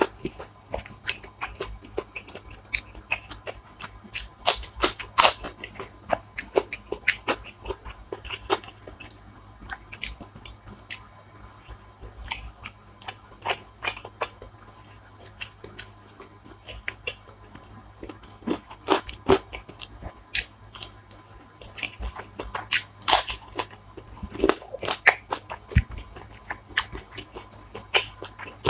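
Close-up eating sounds: chewing and irregular sharp crunches and bites of food.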